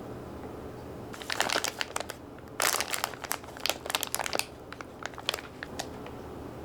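Packaging crinkling as it is handled, in a run of crackly bursts that starts about a second in, is loudest around the middle and thins out into scattered clicks near the end.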